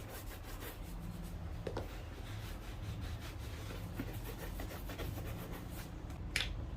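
Repeated rubbing strokes on a shoe, quick and dense at first, over a steady low hum, with a few small clicks and one sharper click near the end.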